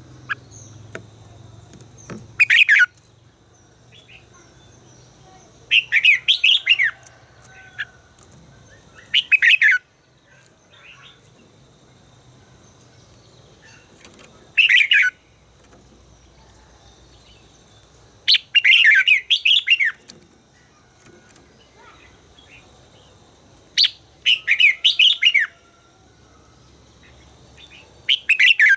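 Red-whiskered bulbul singing loud, short warbling phrases, each lasting up to two seconds, repeated every few seconds with pauses between.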